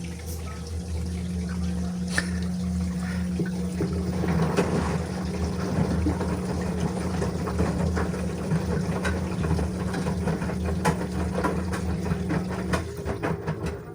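LG washing machine running, a steady low hum under rushing, splashing water with scattered small clicks. The hum changes about a second before the end.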